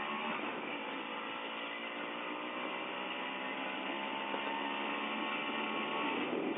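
Voskhod 3M motorcycle's single-cylinder two-stroke engine running, its pitch rising slowly and steadily, then changing near the end.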